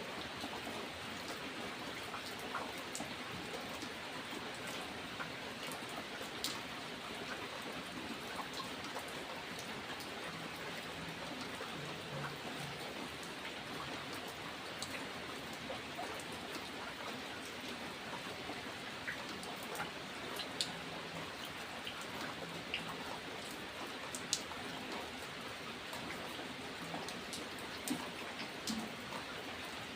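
Steady rain falling, with individual raindrops ticking sharply now and then.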